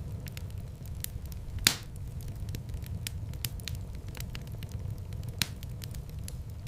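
Wood fire burning in a fireplace, with a steady low rumble of flames under scattered small crackles. Two louder pops stand out, the bigger one about a second and a half in and another a little after five seconds.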